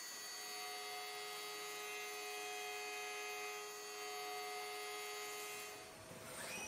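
Steady electrical-machine hum made of several held high tones, with a quick rising whine about six seconds in.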